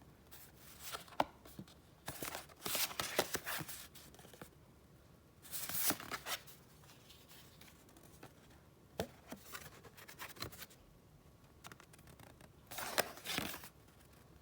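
Paper being handled: rustling and crinkling in three main bursts, with a few light taps and clicks between them.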